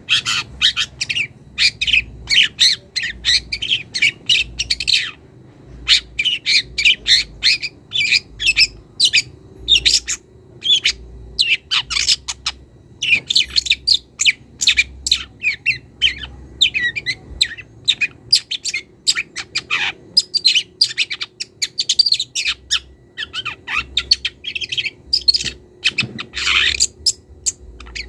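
Young long-tailed shrike (cendet) singing a fast, continuous run of short harsh chattering and squawking notes, several a second, with brief pauses, as it starts to bring out its mimicked songs.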